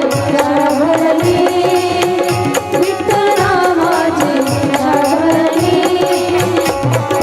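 Devotional kirtan music: a slowly bending melodic line over a steady, evenly repeating drum beat.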